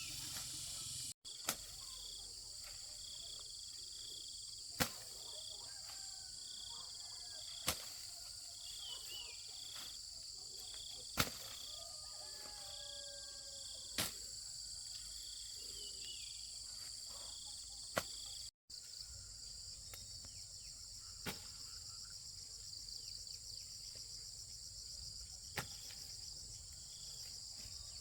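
Steady, high-pitched chorus of insects with a pulsing buzz, and a sharp click or knock every few seconds.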